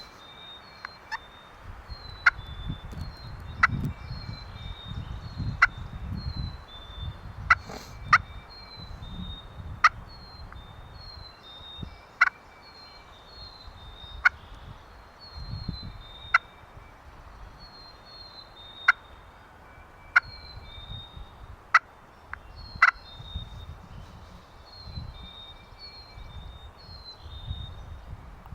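Wild turkey calling: a string of short, sharp notes, one every second or two. A small bird chirps high and steadily underneath, over a low rumble.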